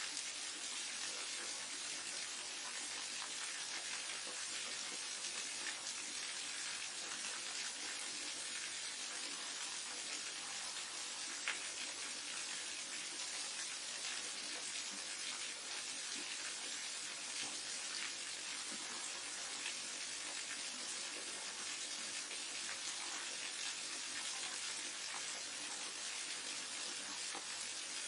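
Forest waterfall and mountain stream: water rushing and splashing steadily, with one brief sharper splash near the middle.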